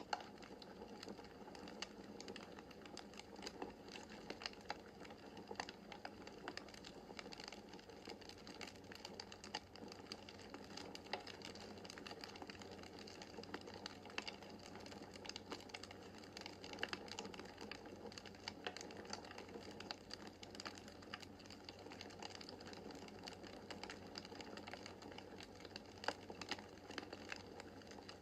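Quiet wood fire crackling in a fireplace: a dense, irregular patter of small snaps over a soft steady hiss, with a few sharper pops standing out.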